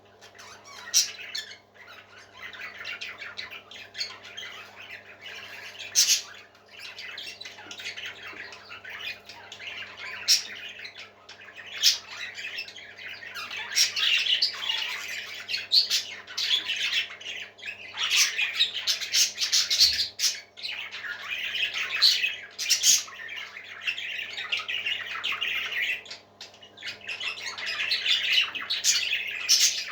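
Parrot chicks giving continuous raspy squawking calls, with sharper, louder squawks every few seconds, over a steady low hum.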